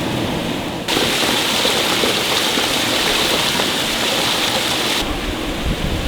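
Steady rushing water, like a waterfall or stream, as a constant hiss. It turns suddenly brighter and louder about a second in and drops back near the end.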